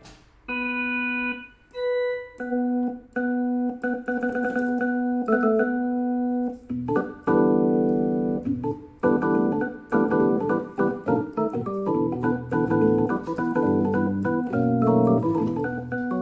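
Casio CT-S1 portable keyboard playing an organ tone: held notes that sustain evenly and stop abruptly. A few single notes open the passage, then from about seven seconds in it fills out into chords over a bass line.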